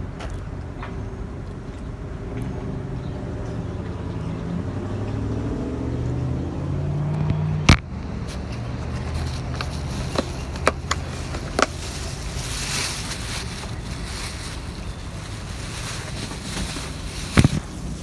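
Motor vehicle engine running, its pitch rising for a few seconds as it speeds up, then steady. Several sharp clicks or knocks cut through it, the loudest about halfway in and another near the end.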